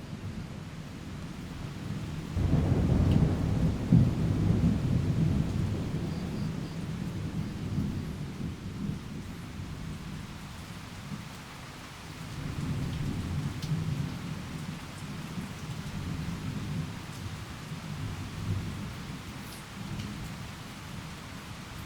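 Thunderstorm ambience: rain falling steadily with rolling thunder, a long low rumble swelling about two and a half seconds in and fading over several seconds, then a second, softer roll around halfway through.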